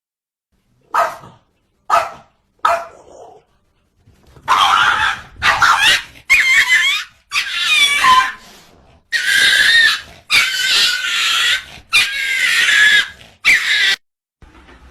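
A dog vocalising: three short barks about a second apart, then a run of about eight longer calls that waver up and down in pitch.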